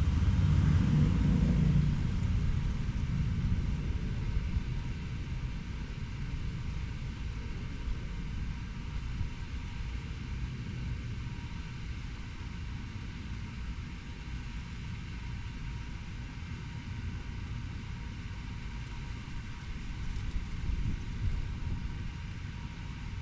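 Steady low rumble of road traffic. One vehicle passes close at the start, louder for about two seconds, then it fades into the steady hum.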